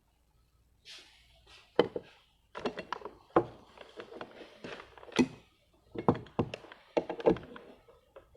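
Irregular knocks, taps and clatter of hard objects being handled, with a few sharp knocks standing out about two, five and seven seconds in.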